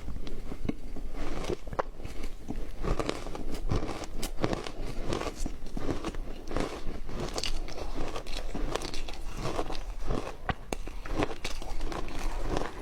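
Ice being bitten and chewed close to the microphone: a long uneven run of sharp, crisp crunches.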